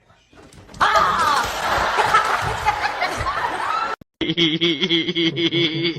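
People laughing over a noisy background, cut off suddenly about four seconds in; then a steady, evenly pitched hum or drone with a fast flutter.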